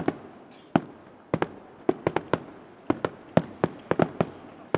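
Aerial fireworks shells bursting in rapid succession, a saishoku senrin (coloured thousand-ring) display. About fifteen sharp bangs come at irregular intervals, some in tight clusters, each trailing a short echoing rumble.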